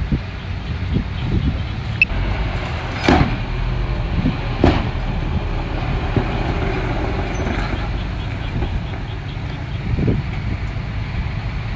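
Komatsu bulldozer's diesel engine running steadily under load, with a few short clanks or crunches over it, the loudest about three seconds in and again a second and a half later.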